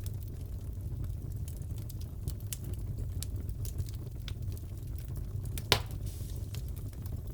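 Crackling wood fire in a fireplace: a steady low rumble with frequent small crackles and one loud pop a little after five and a half seconds.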